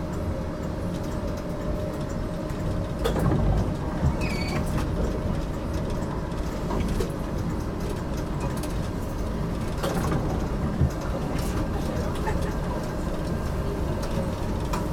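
HTM GTL8 articulated tram running on street track, heard from on board: a steady rumble with scattered knocks and clicks, and a brief high tone about four seconds in.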